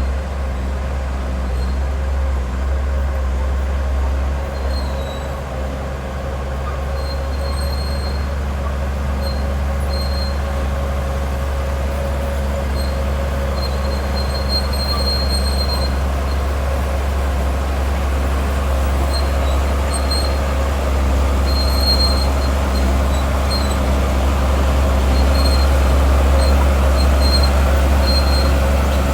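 Bulldozer's heavy diesel engine running steadily under load with a deep rumble, growing slightly louder near the end. Short high-pitched squeals come and go throughout.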